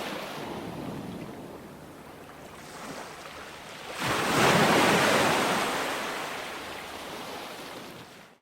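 Ocean waves breaking on a shore. The hiss of receding surf eases off, then about four seconds in a wave breaks with a sudden swell of rushing water that slowly dies away.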